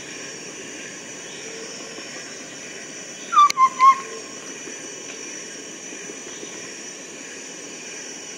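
Chestnut-backed scimitar babbler calling: three quick, low, whistled hoots about three seconds in, over a steady high hiss in the background.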